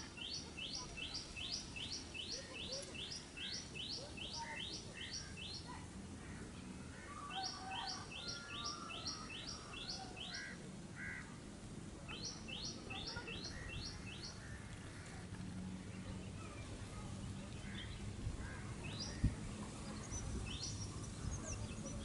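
A bird singing three bouts of quick, evenly repeated high notes, about three a second, then a few single notes near the end, over a low steady rumble.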